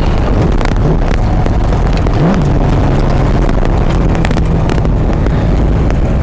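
1979 Ford Fairmont's engine and exhaust running under way, a steady drone. Revs rise briefly about two seconds in, then settle back to a steady note.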